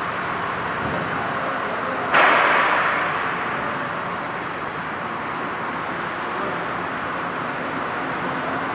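Double-spindle CNC engraving and milling machine running, a steady machining noise with a faint high whine. About two seconds in it suddenly gets louder, then fades back over the next second.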